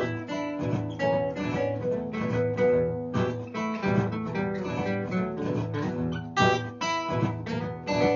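Guitar playing a repeating blues riff with strummed chords, layered through a looper pedal.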